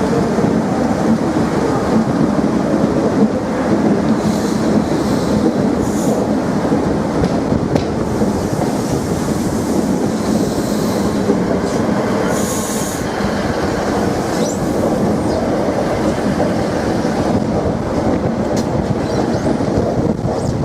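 Train running along the track, its wheels clattering steadily on the rails, with brief high wheel squeals about four seconds in and again about twelve seconds in.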